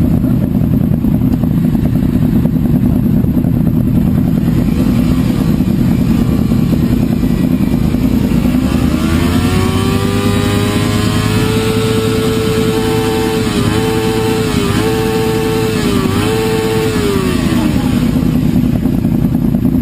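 Sport motorcycle engine and exhaust over a steady low rumble; about halfway through the engine note climbs and holds, dips three times in quick succession, then falls away near the end.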